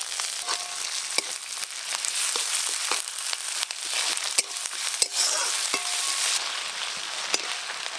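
Sliced onions and ginger-garlic paste sizzling in hot oil in a metal wok, with repeated clicks and scrapes of a metal spatula stirring them.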